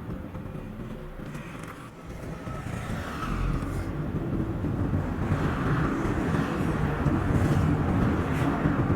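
Road and engine noise of a car driving, sped up to double speed. The noise dips about two seconds in, then grows louder and stays there.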